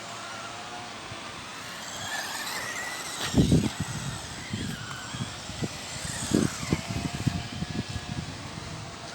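Electric motors of small radio-controlled trucks whining, their pitch rising and falling as they speed up and slow down. From about three seconds in there is a run of irregular low thumps.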